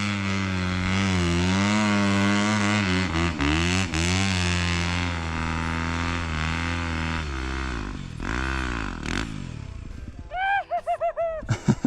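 Yamaha dirt bike engine running hard at high revs, its pitch wavering up and down as the throttle works, then falling away and fading over the last few seconds. A short run of quick high chirps comes near the end.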